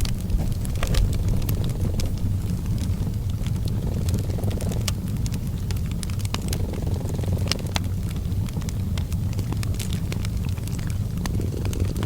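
A cat purring in a low, steady drone, with a wood fire crackling over it in sharp, scattered pops.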